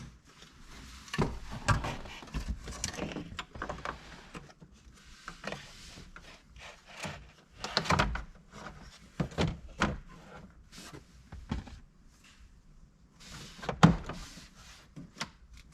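Plastic dashboard parts being handled and fitted: scattered knocks, clicks and rubbing, with one sharper knock near the end.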